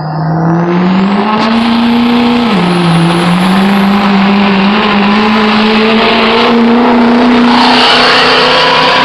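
Engine of a pulling truck or tractor run hard under load down the track. The revs climb over the first two seconds, dip briefly about two and a half seconds in, then hold high and steady. A thin high whine climbs above the engine.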